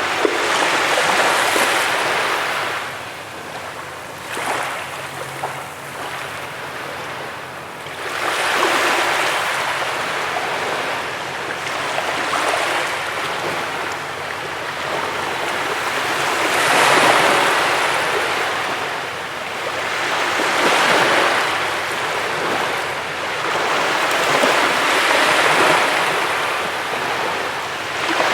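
Ocean waves breaking and washing on a beach, the surf swelling and fading in a surge every three to four seconds.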